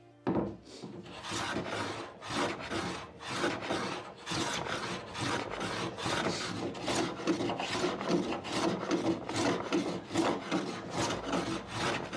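A hand tool rasping back and forth over the wood of a door, in quick even strokes, about three a second, with brief breaks around four seconds and eleven seconds in.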